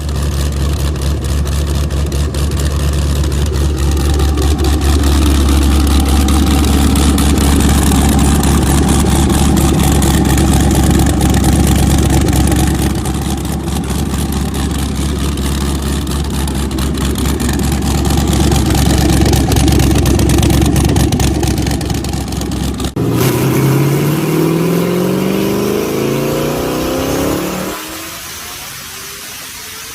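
High-performance car engine, turbocharged, held at steady high revs for a long stretch. About 23 seconds in it breaks off abruptly into another run, where the engine revs up in a clean rising sweep and then drops away near the end.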